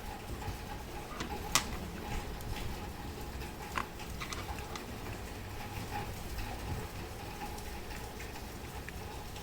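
Scattered light clicks and taps at uneven intervals, as of small hard parts being handled, over a low steady hum.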